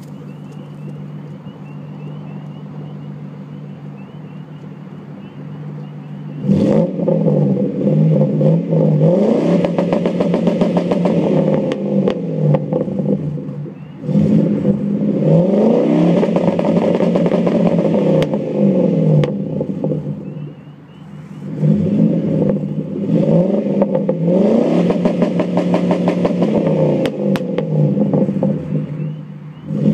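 1999 Ford Crown Victoria Police Interceptor (P71) 4.6-litre V8 idling, then revved onto a two-step launch limiter set at 4500 rpm three times, each held for about six seconds. On the limiter the engine runs in a rapid stuttering crackle as the ignition cuts in and out, falling back toward idle between bouts.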